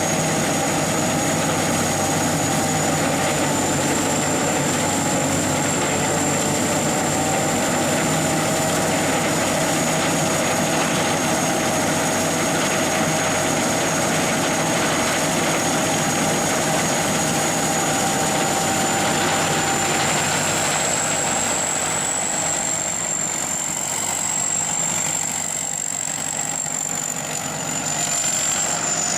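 SS-200 A rice combine harvester running steadily, its engine and machinery giving a constant high-pitched whine over the noise. It goes a little quieter for a few seconds near the end, then picks back up.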